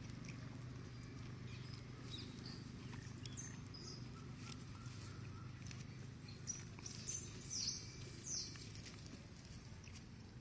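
Birds chirping: a few short, high calls, louder and more frequent after the middle, over faint steady low background noise.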